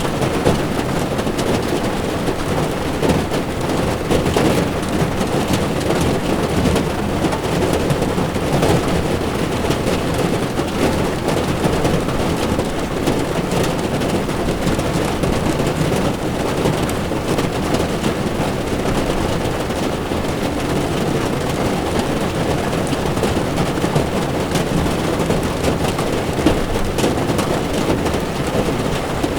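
Heavy rain drumming steadily on a car's windshield and body, heard from inside the moving car, with a low hiss of tyres on the wet road beneath it. Countless small drop impacts crackle over the steady wash.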